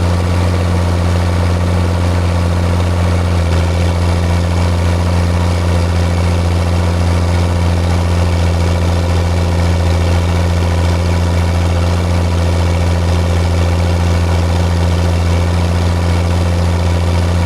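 John Deere tractor engine running at a steady speed during plowing, a constant deep hum with no change in pitch.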